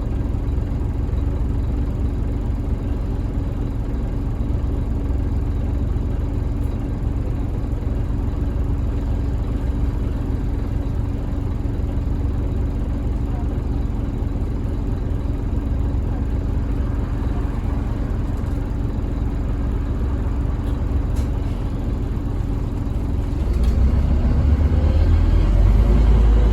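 Interior sound of a Scania N230UB OMNICity single-deck bus, its diesel engine running steadily with a constant low drone. About 23 seconds in the engine note changes and grows louder and deeper as the bus accelerates.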